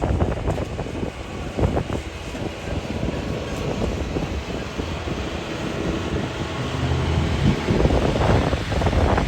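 Truck engine running hard with a dense, uneven rumble, getting louder near the end, with wind noise on the microphone.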